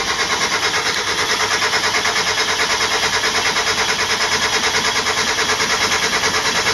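Mazda MX5 1.6 four-cylinder engine turned over on the starter motor with the spark plugs out, spinning at an even, rapid pulse without firing, to push oil into the new oil filter before starting.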